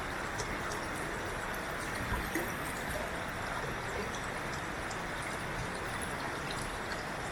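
Steady rushing of running water, with a couple of faint knocks about two seconds in.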